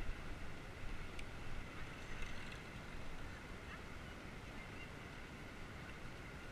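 Wind rumbling on a GoPro's microphone, with road noise from a bicycle in motion and a single sharp click about a second in.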